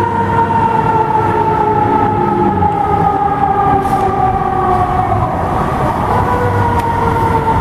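Fire truck siren held on one long tone that slowly falls in pitch throughout, over a low rumble.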